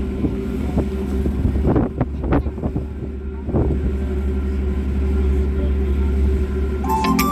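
Steady low drone of a passenger ferry's engines, heard on board, with a few sharp knocks about two to three and a half seconds in. Music comes in near the end.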